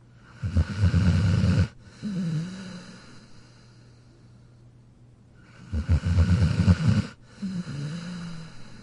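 Dog snoring in its sleep: two loud, rattling snores about five seconds apart, each followed by a softer breath carrying a wavering tone.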